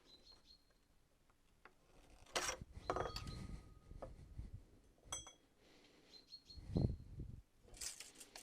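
Steel rebar knocking and clinking on a rebar stirrup bending tool, with one metallic clink ringing on for about a second and a few duller knocks and scrapes. Faint bird chirps twice.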